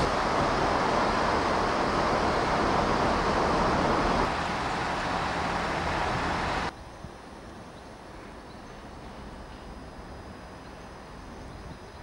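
Class 121 diesel railcar on the move, a loud, even running noise that cuts off suddenly about seven seconds in, leaving a much quieter steady background.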